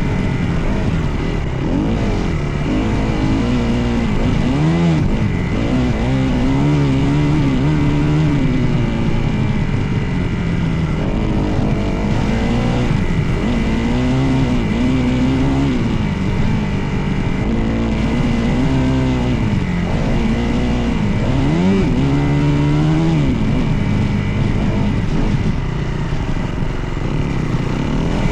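Dirt bike engine revving up and down as the bike is ridden, its pitch climbing and dropping every few seconds through throttle changes and gear shifts, over a steady low rumble.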